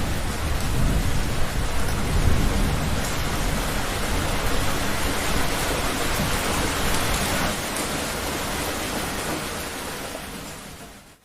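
Heavy rain with rolling thunder, the low rumble strongest in the first few seconds and easing after. The whole storm sound fades out near the end.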